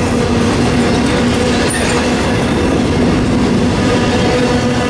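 CSX double-stack container freight train rolling past close by: the steady, loud rumble and rattle of steel wheels on rail, with a steady low hum running under it.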